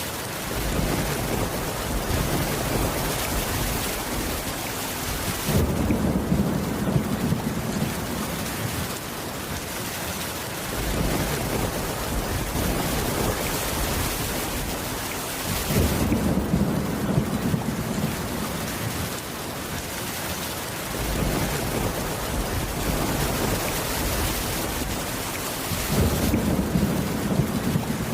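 Steady heavy rain with low rumbles of thunder that swell and fade every few seconds, the strongest about every ten seconds.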